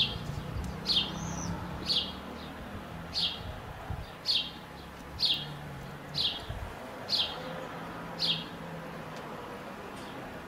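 A small songbird calling, one short high note falling in pitch about once a second, nine times over. A faint low hum runs beneath it.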